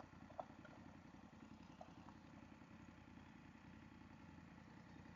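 Near silence: a faint, steady low hum of a motorcycle engine and road noise while riding, with two faint clicks.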